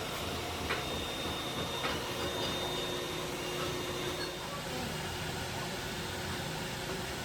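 Steady noise of factory machinery running, with a couple of short metallic clicks about one and two seconds in.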